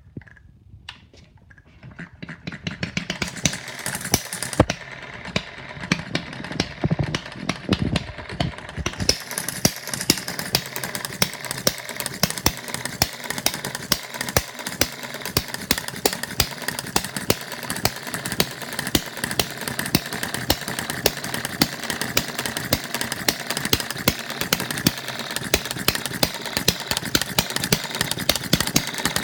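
Small model hit-and-miss engine built from bar stock, starting about two seconds in and then running steadily: a fast train of clicks with louder firing pops at uneven intervals.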